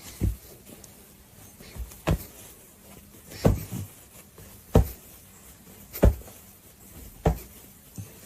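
A series of dull, evenly spaced thumps, about one every second and a quarter.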